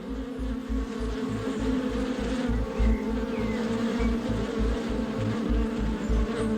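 Honeybees buzzing at their hive, a steady drone of many bees together, with a low irregular throb underneath.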